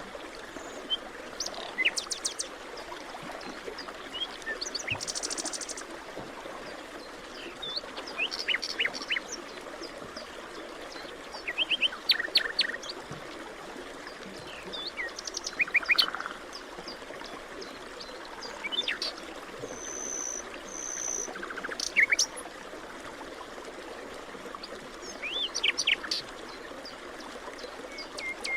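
Several birds chirping and calling in short phrases every few seconds, over a steady background rush of forest ambience.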